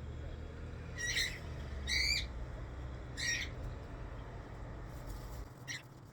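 Pet parrot calling: three short calls about a second apart, then a quick run of short chirps near the end.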